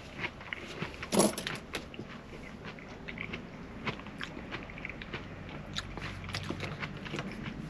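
Someone eating: bites and chewing with scattered small clicks and one louder crunch about a second in, over a low steady hum.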